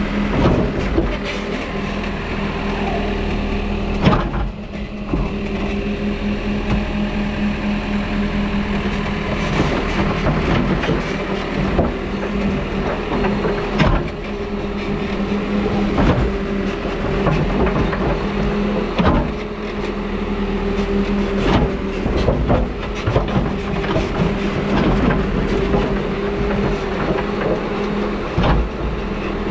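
A New Holland backhoe loader's diesel engine running steadily while the machine works, with repeated clanks and knocks from the digging equipment.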